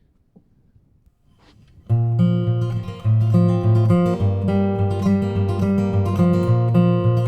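Acoustic guitar strummed with the fingers rather than a pick, coming in about two seconds in with the song's intro: chords changing in a steady rhythm over a moving bass note.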